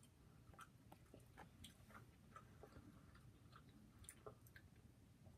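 Faint chewing of pizza: soft, irregular mouth clicks and smacks as a person eats.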